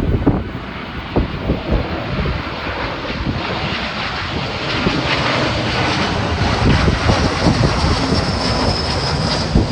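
Airbus A321-231 airliner's IAE V2500 jet engines passing on landing approach: a rushing roar that grows louder over the seconds, with a high engine whine coming in near the end. Gusting wind buffets the microphone underneath.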